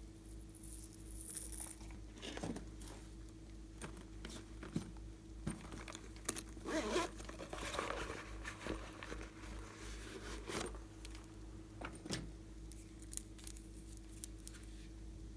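Slime being squished and stretched by hand, making sticky crackling and popping with scattered clicks. It is busiest about six to eight seconds in.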